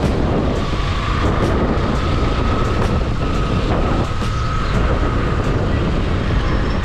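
Motorcycle riding along, its engine running under steady rushing wind noise on the rider's microphone, with a faint steady whine throughout.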